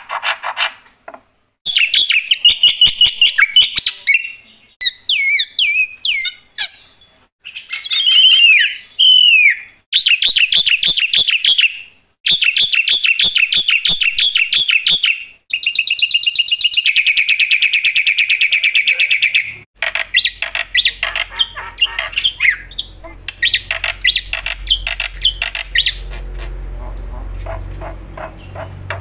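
Black-winged myna (jalak putih) in loud full song: a varied run of rapid clicking chatter, whistled up-and-down glides and fast trills, with a long buzzing rattle a little past the middle. In the last third a low hum comes up under softer chatter.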